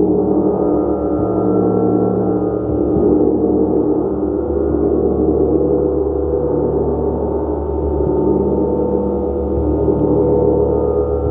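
Large gong played continuously with soft repeated strokes, building a dense, sustained wash of overlapping tones that never dies away.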